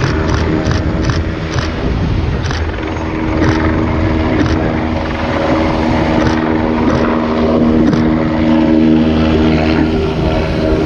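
Military helicopter flying by, its turbine engines and rotor making a steady drone with a held hum. Sharp ticks come over it in the first few seconds, quickly at first and then further apart.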